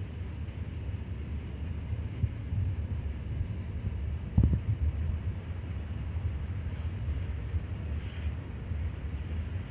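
Freight train of open-top wagons rolling past with a steady low rumble from the wheels on the rails. There is one heavy thump about four and a half seconds in, and high-pitched wheel squeal comes and goes in the second half.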